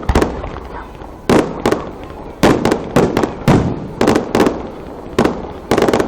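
Fireworks going off: a quick, irregular volley of about a dozen sharp bangs, each dying away in a short echoing tail.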